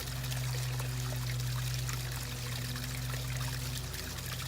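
Water trickling steadily over a constant low electrical hum.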